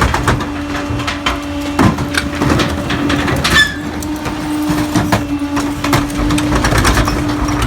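Pak-Mor 25-yard rear-loader garbage truck on a Crane Carrier chassis, compacting heavy trash: the engine hums steadily under irregular knocks and cracks, with a short squeal about three and a half seconds in.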